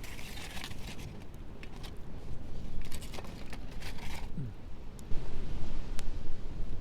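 Wind rumbling on the microphone, with surf washing up on the beach twice and a few sharp clicks.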